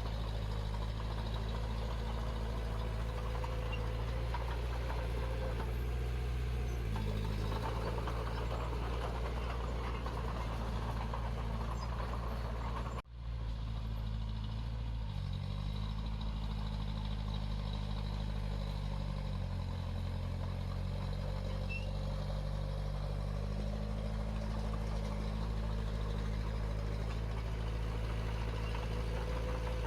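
Heavy-equipment diesel engine running steadily, its pitch shifting a few times. There is a brief cut-out a little under halfway through.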